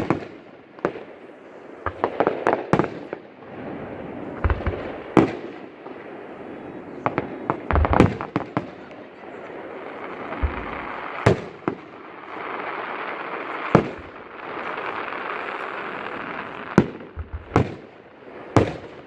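Fireworks display: sharp bangs of aerial shells at irregular intervals, some in quick clusters, over a continuous rushing noise that swells between them.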